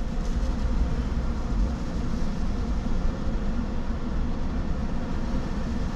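Steady low rumble with a fainter hiss above it, heard inside a car's cabin.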